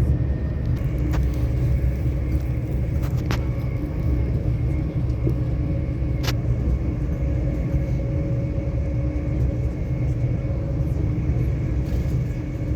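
Passenger train running, heard from inside the carriage: a steady low rumble with an even hum over it and a few light clicks.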